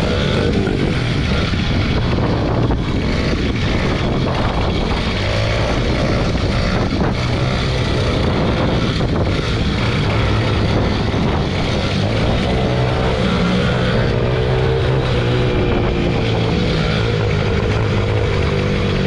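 Small motorbike engine running while being ridden, its pitch rising and falling with the throttle, under heavy wind rush on the microphone.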